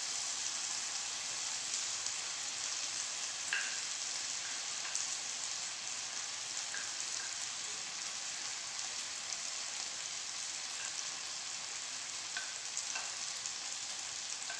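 Diced onion and potato frying in butter in a stainless steel pan, a steady sizzle, with a few faint clicks as chopped carrots are pushed in from a plate with a wooden spoon.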